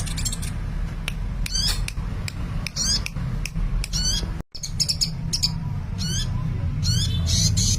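Sunbird (Indonesian 'kolibri') singing busily: quick high-pitched chirps and short sweeping twitters repeated in rapid phrases. A steady low hum runs underneath, and the sound cuts out briefly about four and a half seconds in.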